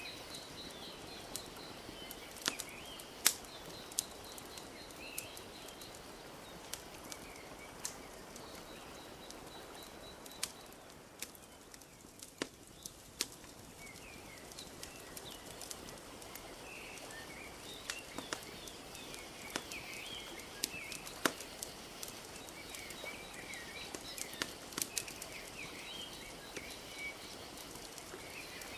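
Wood fire crackling with scattered sharp pops over a steady soft wash of lapping lake water, with small birds chirping and trilling in the background.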